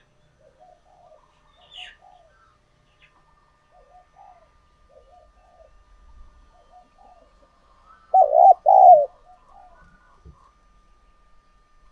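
Spotted dove cooing: faint repeated coo phrases throughout, then a loud, close two-part coo about eight seconds in. A brief higher chirp sounds about two seconds in.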